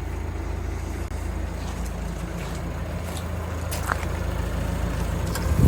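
Vauxhall Combo van's 1.5-litre turbo diesel engine running steadily, with a louder low thump near the end.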